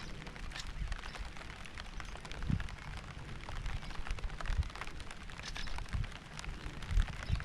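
Rain falling, a steady hiss with many separate drops ticking, over an uneven low rumble with a few dull low thumps, one about two and a half seconds in and another near the end.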